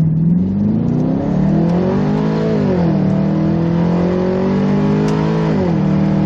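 BMW 645Ci's 4.4-litre V8 running loud through a custom exhaust that is not a straight pipe. The engine note climbs in pitch for about two and a half seconds, drops quickly, holds and creeps up again, then drops once more near the end.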